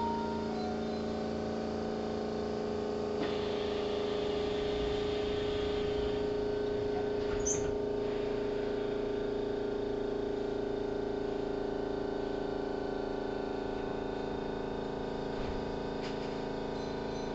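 Steady hum inside a Keihan 3000-series train carriage, from the car's electrical equipment, with a faint rise in background noise about three seconds in.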